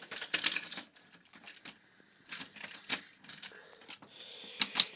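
Irregular sharp clicks and light knocks of plastic toy trains being handled and moved along plastic track.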